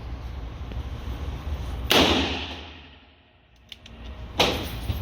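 Two revolver shots about two and a half seconds apart, each followed by a ringing echo that dies away: a .44 Magnum snub-nose Ruger Super Redhawk Alaskan firing fairly hot .44 Special loads in an indoor range.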